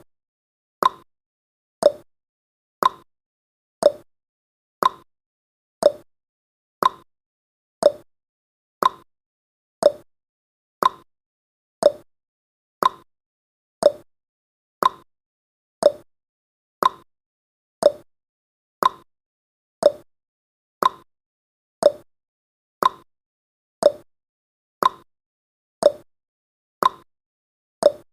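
Clock-tick sound effect of a countdown timer: one sharp tick every second, alternating between a higher tick and a lower tock, marking off the seconds.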